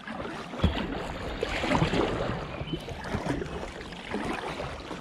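Canoe paddle strokes dipping and splashing in river water, irregular and uneven. A low rumble, like wind on the microphone, comes in about half a second in.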